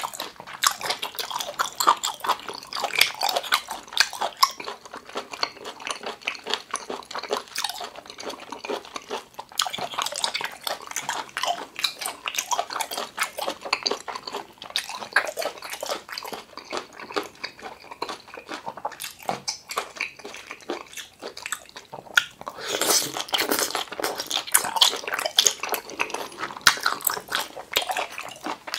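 Close-miked chewing and biting of cooked octopus: a steady run of clicking mouth sounds, louder and denser about three-quarters of the way through.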